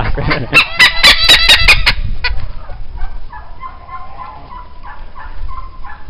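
A large bird gives a quick run of about ten loud calls, roughly six a second, in the first two seconds, followed by softer, shorter calls.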